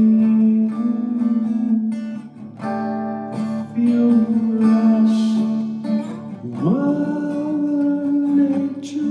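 Acoustic guitar strumming under a wordless sung melody of long held notes, which slides up to a higher held note about two-thirds of the way through.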